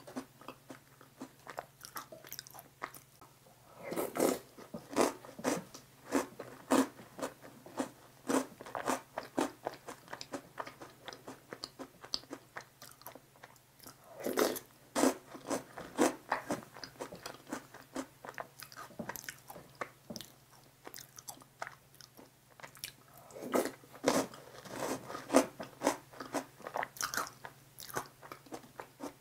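Close-miked chewing and crunching of cream-soaked Maltesers, their malted-milk centres crackling between the teeth, in several bouts of a few seconds with quieter gaps between. A faint steady hum sits underneath.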